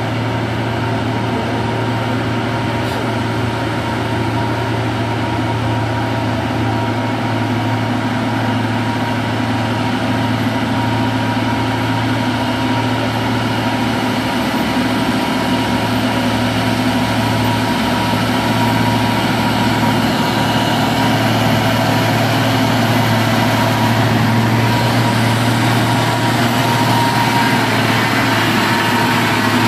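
Large truck engine running steadily at a low, even speed, growing slowly louder toward the end.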